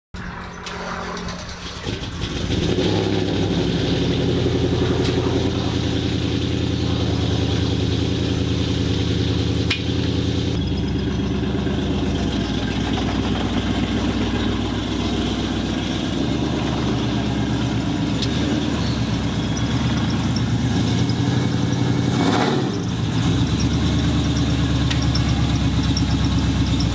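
A 2006 GMC Sierra 1500's supercharged LSA V8 with an aftermarket cam running through its exhaust as the truck pulls in, with a lumpy, pulsing note. It dips briefly about 22 seconds in, then carries on.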